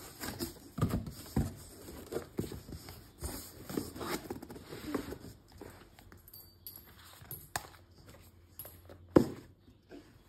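Household items being handled and set in place: scattered light knocks, clinks and rustles, with one sharper knock about nine seconds in.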